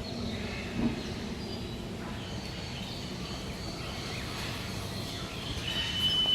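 Outdoor ambience with faint bird chirps and a steady background hum, a single knock about a second in, and a steady high-pitched tone that starts near the end.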